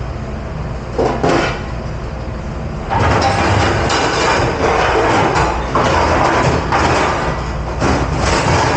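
Restaurant dish pit at work: a steady low machine hum, two clattering knocks about a second in, then from about three seconds a loud rushing noise of washing that surges and eases.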